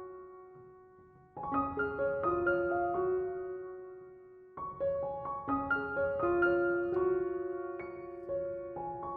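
Background music: gentle solo piano playing slow phrases of single notes that ring and fade, with a short lull near the start and a new phrase beginning about a second and a half in.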